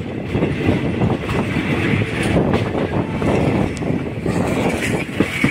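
Passenger train running along the track, heard from an open window of the moving carriage: a steady rumble of wheels on rails with wind on the microphone.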